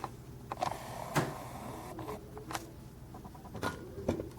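Small, sharp clicks and light handling noise from a metal and plastic diecast model truck being turned over in the hands, about five distinct clicks spread over a few seconds.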